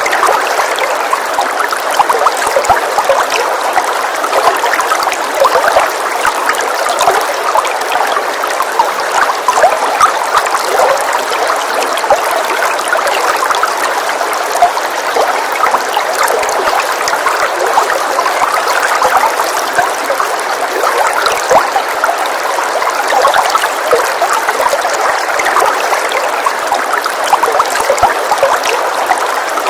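Steady rain, a dense, even hiss of many small drops with little deep rumble.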